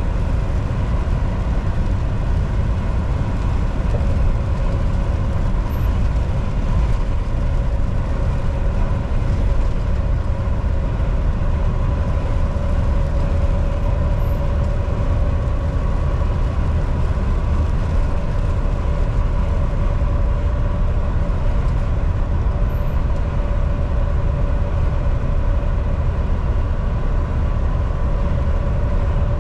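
Volvo VNL 760 semi truck driving at highway speed: a steady low engine and road rumble, with a faint constant whine running through it.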